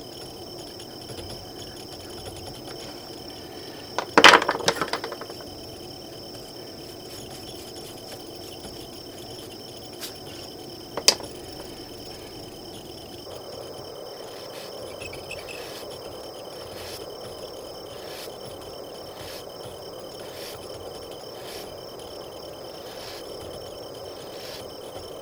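Crickets chirring steadily in a nature-sound background. About four seconds in comes one sharp, ringing clatter of a hard object on the work surface, and a single short click comes about eleven seconds in.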